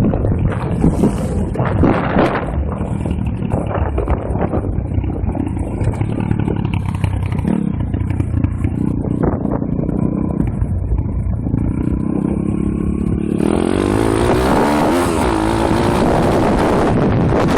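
Pit bike's small single-cylinder four-stroke engine running while ridden off-road, the revs rising and falling with the throttle. About three-quarters of the way through it gets louder and climbs in pitch as the bike accelerates, with more wind noise mixed in.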